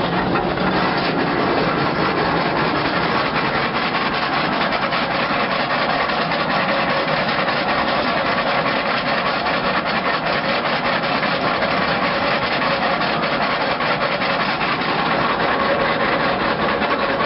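Steam-driven veneer mill running, its knife shaving veneer from a log with a steady, dense scraping noise.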